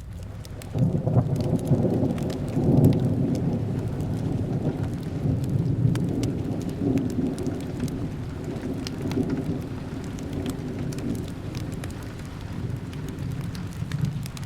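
Thunder rolling over steady rain. It breaks in sharply about a second in, is loudest over the next couple of seconds, then rumbles on and slowly fades. Crackles from a fireplace tick throughout.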